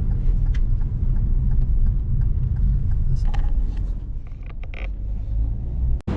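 Steady low rumble of a car on the move, with a few faint clicks, cutting off abruptly near the end.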